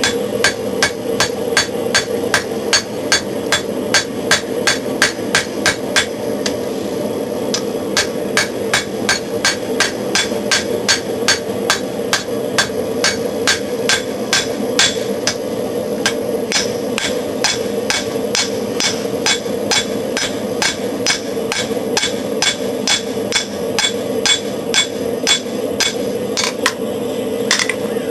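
Hand hammer striking a hot steel knife blank on an anvil in a steady rhythm of about three blows a second, drawing out and tapering the tang. Under the blows runs the steady drone of the forced-air gas forge.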